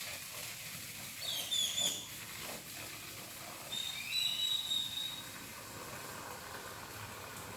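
Birds calling over a steady background hiss: a quick run of chirps a little over a second in, then a clear held whistle with a rising sweep beneath it about four seconds in.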